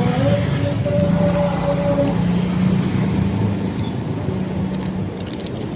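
A motor vehicle running steadily amid road traffic noise, with a continuous low hum.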